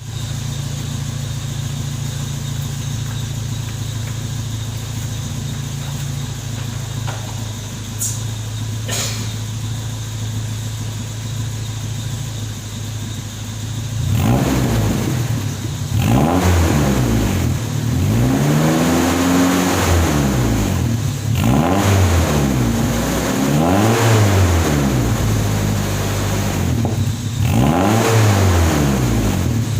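Exhaust note of a Toyota Kijang fitted with an aftermarket Alpino resonator: the engine idles steadily, then about halfway through it is revved repeatedly in short blips, each rising and falling in pitch.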